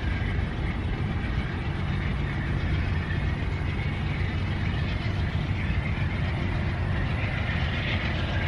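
Passenger train rolling away down the line, a steady low rumble of wheels on rail with a faint higher hiss that grows a little near the end.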